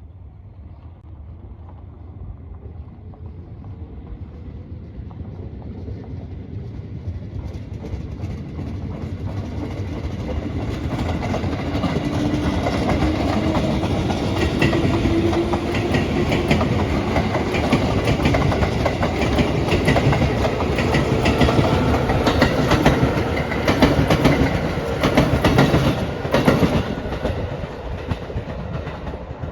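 A train approaching and passing close by: the rumble builds steadily, with a slowly rising tone, then the wheels click over the rail joints loudest near the end before the sound falls away.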